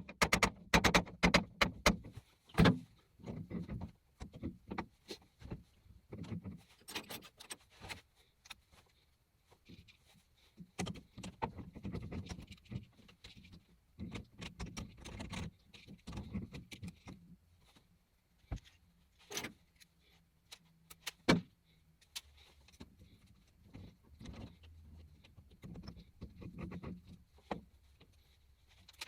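Irregular metallic clinks and knocks of parts and tools being handled. They come fast and close together at first, then sparser, with one sharp knock near the end.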